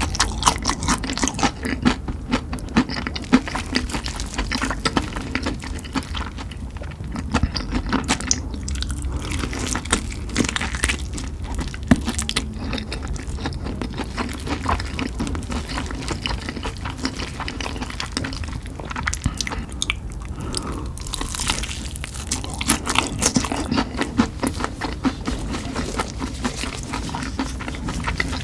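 Close-up chewing and crunching of spicy chicken, with crackly bites and mouth sounds coming in busier spells and easing off in between.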